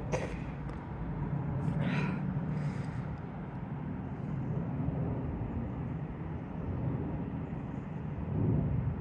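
Steady low rumble of distant vehicles, with a couple of brief higher sounds near the start and about two seconds in.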